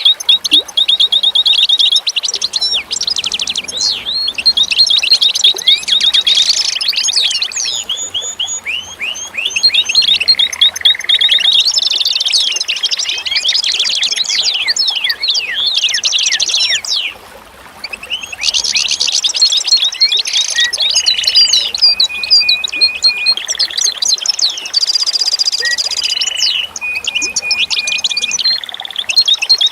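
Dense birdsong: several small birds chirping and trilling in quick overlapping phrases, with a brief lull about seventeen seconds in.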